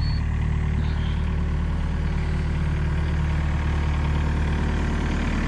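Komatsu excavator's diesel engine running at a steady speed, a constant low hum.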